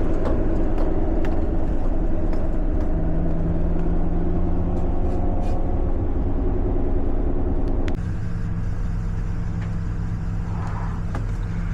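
Steady engine and road noise heard from inside a moving truck's cabin. About eight seconds in, the sound drops slightly in level and changes in character.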